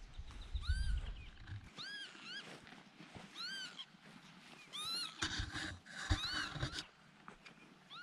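A bird giving repeated alarm calls, short arched notes that rise and fall, roughly one a second: the bird is agitated, calling at intruders near it. Low rumbles come under the calls near the start and again a little after the middle.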